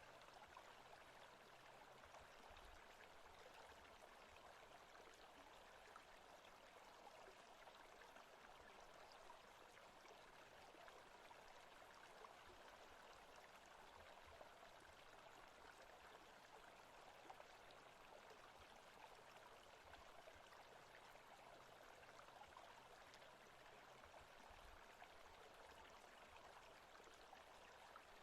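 Faint, steady forest ambience of running stream water.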